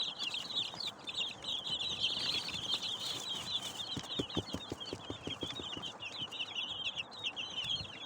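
A brood of young chicks, several days old, peeping all together in a constant, high, overlapping chorus. A little past the middle comes a quick run of about ten soft taps.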